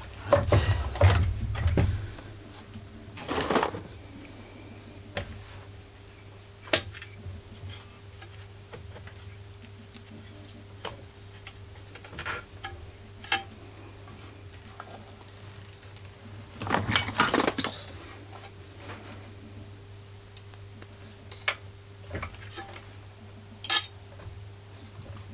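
Metal clinking, knocking and rattling as a small generator's exhaust muffler and its screws are worked into place by hand: scattered sharp taps, with louder bursts of rattling near the start, a few seconds in and about two-thirds of the way through, over a faint steady hum.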